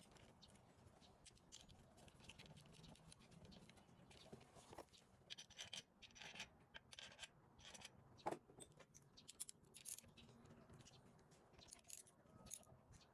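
Faint scraping and light clicks of hand tools and small metal parts being handled, with a sharper click about eight seconds in.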